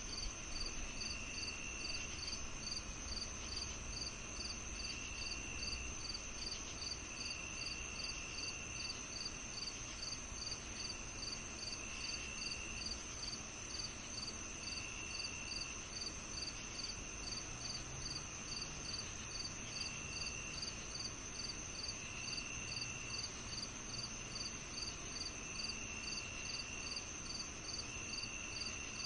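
Summer evening insect chorus: crickets chirping in an even pulse of about two to three chirps a second over a continuous high trill, with a lower trill about a second long repeating every few seconds.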